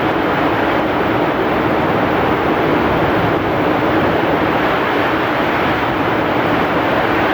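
Heavy rain pouring with strong wind: a loud, steady, even rush of noise that does not change.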